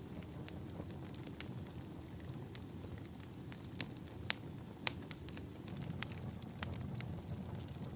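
Wood fire in a fireplace crackling: a steady low rumble with irregular sharp pops and snaps, the two loudest a little past the middle.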